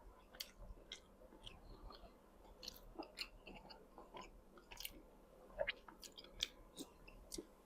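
A person chewing food close to the microphone: quiet, irregular wet clicks and soft crunches of a mouthful of boiled frog.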